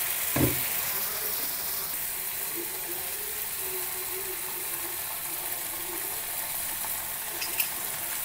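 Onion and garlic sizzling steadily in hot oil in a pan, with a short knock about half a second in.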